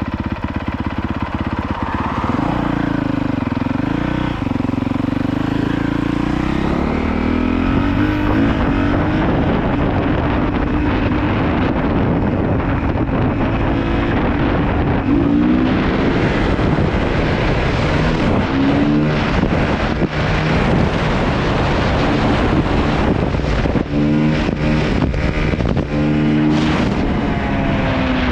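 Honda CRF450R's single-cylinder four-stroke engine running under a rider, its pitch rising and falling as the throttle opens and closes and the gears change. Rushing noise and short buffets, from wind on the microphone, come in near the end.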